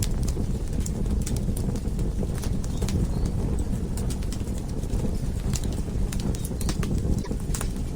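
Wood fire in a fireplace crackling: a steady low rumble of flames with irregular sharp pops and snaps throughout.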